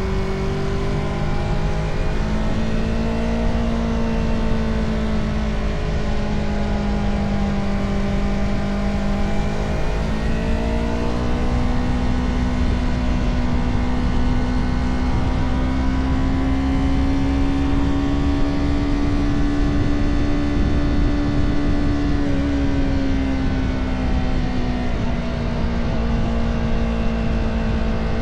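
Motorcycle engine running under way, its pitch drifting slowly up and down with the throttle and stepping up about ten seconds in, over a steady rumble of wind and road noise.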